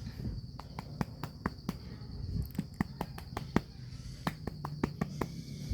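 Cat purring low and steadily, with many sharp, irregular clicks on top. A steady high cricket trill runs behind.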